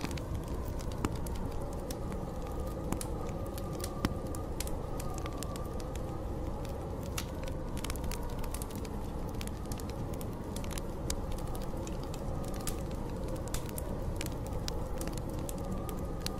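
Wood fire crackling with frequent sharp pops, over a steady rush of storm wind with a faint wavering howl.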